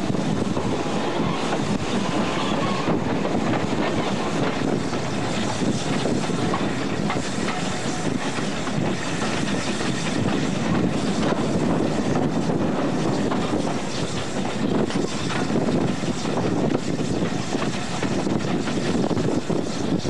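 Steam-hauled train running at speed, heard from just behind the locomotive: a steady rumble and clatter of wheels on the rails, with air rushing past.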